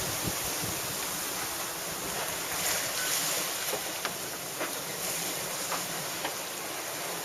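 Steady rush of wind and sea wash aboard a sailing yacht under way at sea, with a few faint ticks.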